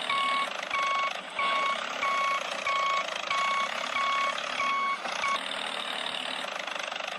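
Vehicle reversing alarm beeping in a steady rhythm, about one and a half beeps a second, over a steady engine rumble; the beeping stops a little past halfway while the engine noise carries on.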